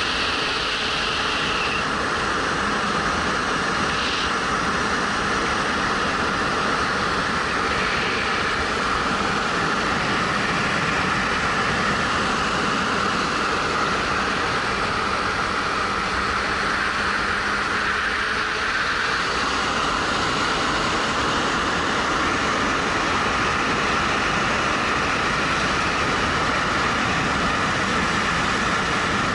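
Steady wind rush over a helmet-mounted camera on a moving motorcycle, with the 2013 Suzuki GW250's 248 cc parallel-twin engine running underneath.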